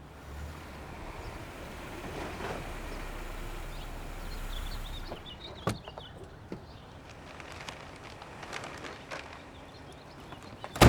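A low steady rumble that fades after about five seconds, then a sharp click, scattered light clicks and steps, and one loud bang near the end, the sounds of someone coming in and a door shutting.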